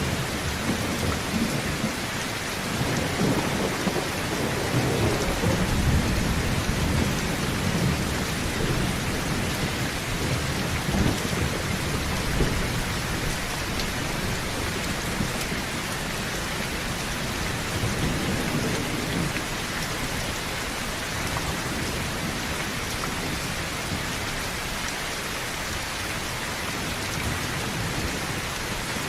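Heavy rain falling on a tin roof, a steady hiss, with low thunder rumbling under it in swells, strongest in the first half.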